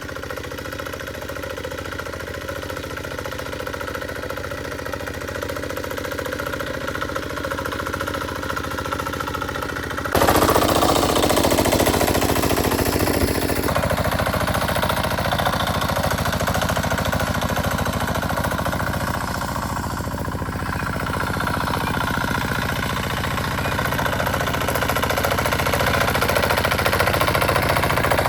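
Small engine running steadily with a fast, even knocking pulse, typical of a plowing tractor's engine; it suddenly gets louder about ten seconds in.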